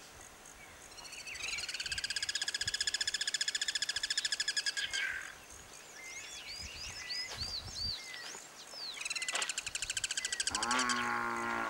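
A bird calling outdoors: a long, rapid, even trill, then a few short chirping notes, then a second trill. Near the end a horse whinnies, the call falling in pitch.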